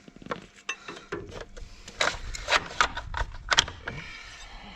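Irregular metallic clicks, taps and knocks of hand tools working a pin loose from a Fiat 640 tractor's brake assembly, busiest about halfway through.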